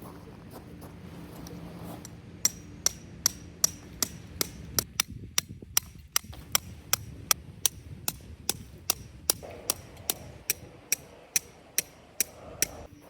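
A hammer driving a metal tent stake into the ground. Steady, evenly spaced blows come about two and a half a second, each with a short metallic ring. They start a couple of seconds in and stop just before the end.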